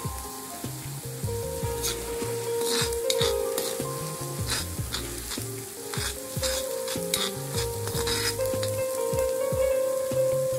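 Green masala paste sizzling in hot oil in a kadhai, with a spoon scraping and clicking against the pan as it is stirred through the middle of the stretch. Background music plays underneath.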